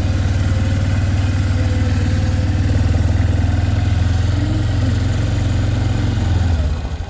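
Four-wheeler (ATV) engine running steadily while riding, easing off near the end.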